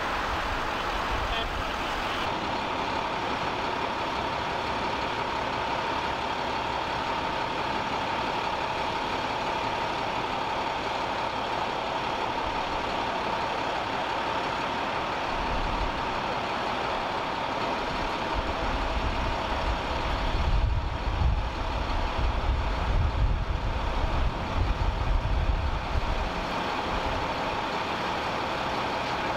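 Steady running of a large vehicle engine idling, with a constant hum above it. Irregular low rumbling comes and goes for several seconds past the middle.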